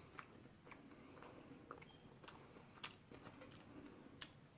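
Faint chewing and wet mouth clicks of a man eating chicken, a scattering of small irregular ticks.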